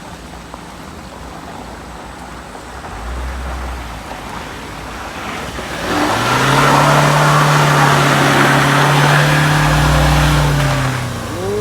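A motor vehicle's engine builds up, then holds at high, steady revs with a loud roar for about five seconds, and drops away near the end.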